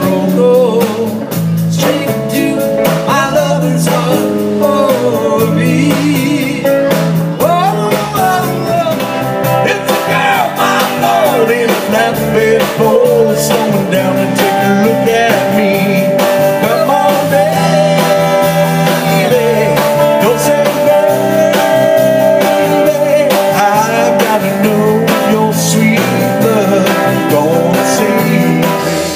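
Live rock band playing a song on electric guitar, electric bass and drum kit, with a lead line that bends and wavers in pitch over a steady beat.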